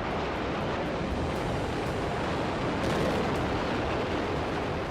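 Steady rushing noise with no clear pitch, holding an even level throughout.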